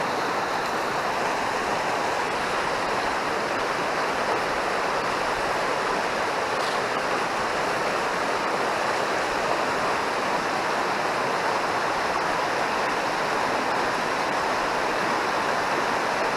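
Mountain stream rushing, a steady, unbroken water noise.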